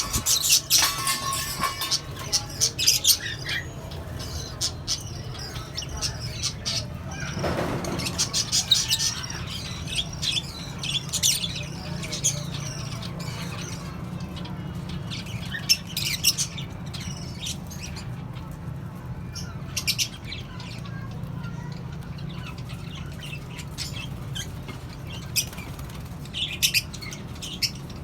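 A mixed colony of small parrots (lovebirds, cockatiels and budgerigars) chirping and squawking, with short sharp calls scattered throughout and some wing flapping, over a steady low hum.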